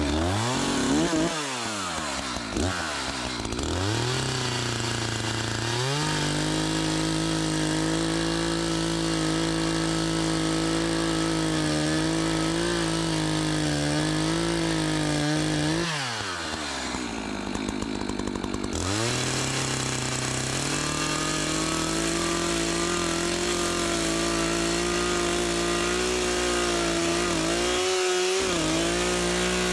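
Chainsaw bucking a felled tree trunk: revved up and down for several seconds, then held at high, steady speed. About halfway through it drops to idle for a few seconds, then runs back up to full speed.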